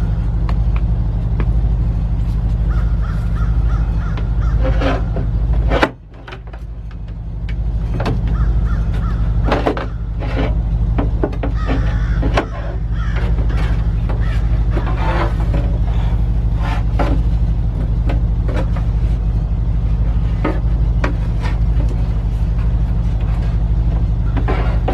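Repeated bird calls over a steady low hum, with scattered taps and knocks. The sound drops off sharply about six seconds in and builds back up over the next few seconds.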